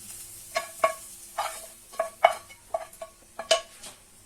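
Green beans sizzling in butter in a pan as a utensil stirs them. It knocks against the pan roughly every half second with a short ringing clink. The sizzle fades near the end.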